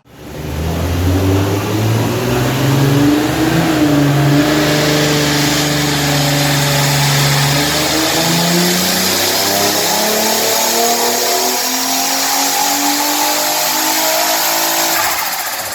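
Twin-turbocharged Infiniti G35 coupe's V6, running through Motordyne Art test pipes and a Shockwave exhaust, accelerating hard. The engine note climbs in pitch, holds level for a few seconds midway, then climbs again in a long pull before dropping off near the end.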